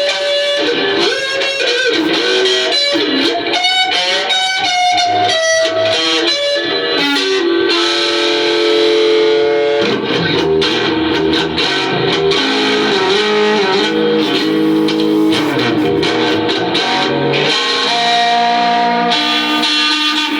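Electric guitar playing blues-rock, single notes with bends and held notes over chords.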